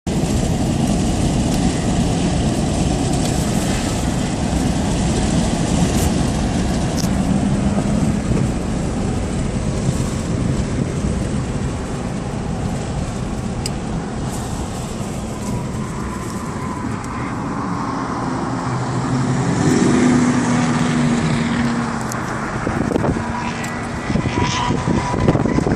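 Pickup truck driven hard at speed, its engine running under load with heavy road and wind noise, and the engine note rising and falling.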